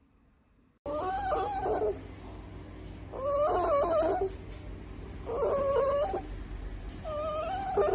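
A dog whining, four drawn-out wavering calls of about a second each, roughly two seconds apart, starting abruptly about a second in.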